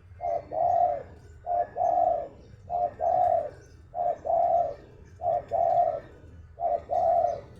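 Spotted dove (tekukur) cooing steadily: six calls in a row, each a short coo followed by a longer, lower-rolling coo, repeated about once a second.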